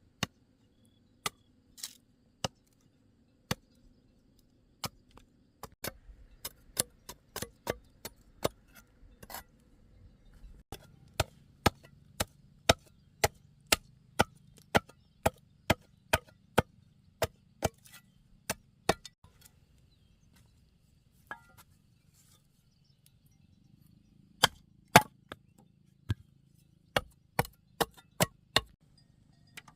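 A blade chopping into wood, a series of sharp strikes. They come irregularly at first, then settle into a steady run of about two a second, stop for a few seconds, and start again in a quick cluster near the end.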